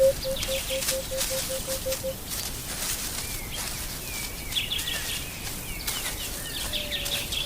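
Bush ambience: a bird's run of short, low hooting notes that speed up and fade out about two seconds in, then small birds chirping and trilling over a steady background hiss.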